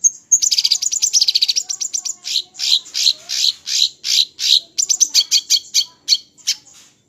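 Small songbird singing loud, high-pitched phrases: a fast trill of chirps, then a slower run of evenly spaced notes at about three a second, then quicker sharp chirps near the end.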